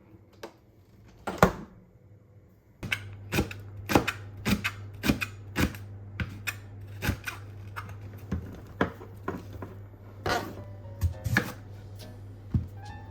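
A series of sharp clacks and knocks of hard objects, about two a second at first and sparser later, over a low steady hum.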